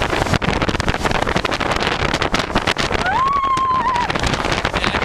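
Strong wind buffeting the microphone on the open deck of a moving catamaran, over the steady rush of the boat. About three seconds in, a short high call rises and holds for about a second.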